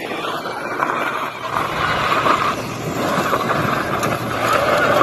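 Motorcycle engine running, its level rising and falling.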